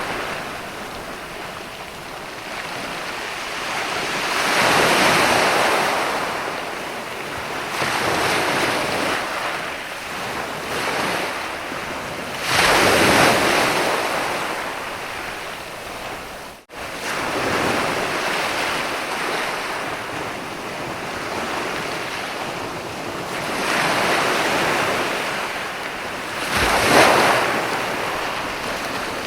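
Ocean waves breaking and washing up on a sandy beach: a continuous rushing surf that swells with each wave, the strongest breakers about 13 and 27 seconds in. The sound cuts out for a split second a little past halfway.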